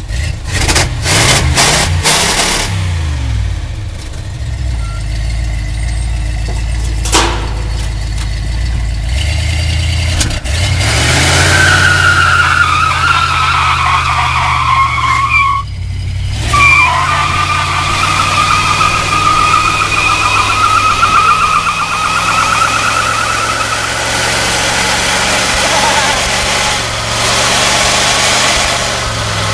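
Big-block V8 car doing a burnout. The engine revs up and is held high, and the spinning rear tyre squeals for much of the time, cutting out briefly partway through.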